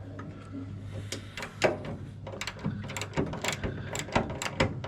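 Socket ratchet clicking in short irregular runs as the radiator's mounting bolts are undone.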